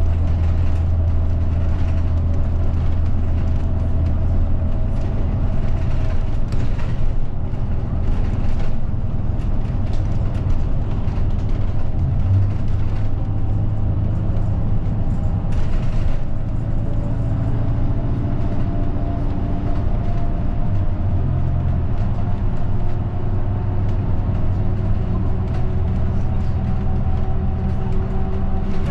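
Inside a moving route bus: the engine's low drone and road noise, with the engine note gliding up and down in pitch as the bus changes speed in the second half, and occasional light rattles from the cabin.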